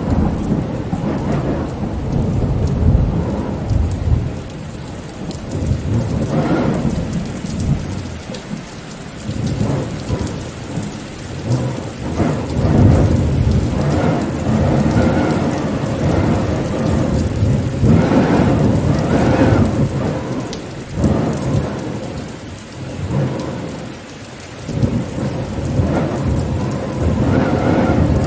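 Steady rain with deep rumbling that swells and fades every few seconds, as in a rainstorm.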